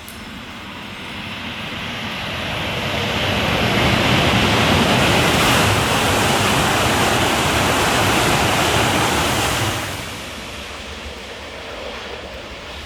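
E5-series Shinkansen passing through the station at high speed on rain-wet track: a rushing of air and wheel noise that builds over about four seconds, holds, then falls away suddenly about ten seconds in as the end of the train goes by.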